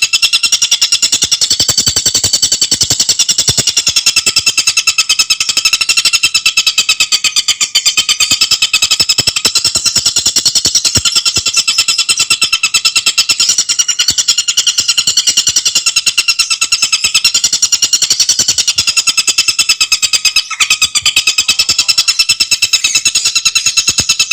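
Tengkek buto bird song: a continuous, fast chattering trill of tightly packed repeated high notes, with one brief break about 20 seconds in.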